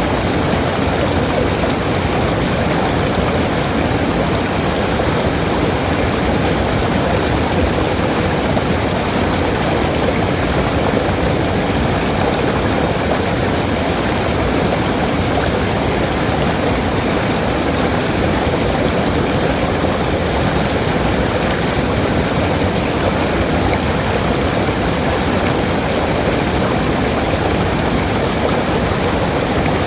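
Waterfall: a steady rush of falling water, constant in level, with most of its weight in the low and middle range.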